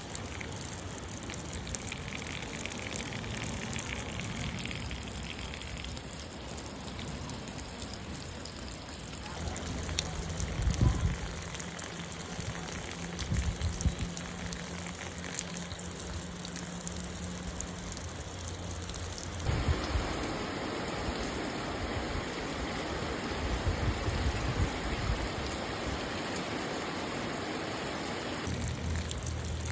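Light rain falling steadily, an even hiss of drops. Its texture changes abruptly a few times, and a few low thumps sound about a third of the way in.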